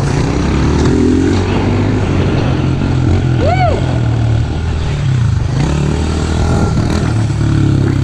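Small off-road vehicle engine running close by, its pitch rising and falling as the rider works the throttle. About halfway through comes a short tone that rises and falls.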